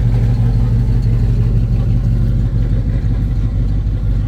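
Car engine running with a steady low rumble, no revving.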